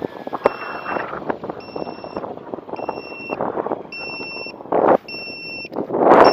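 Electronic beeper sounding a steady series of two-tone beeps, about one a second, six in all. Wind buffets the microphone throughout, with loud gusts about five seconds in and at the end.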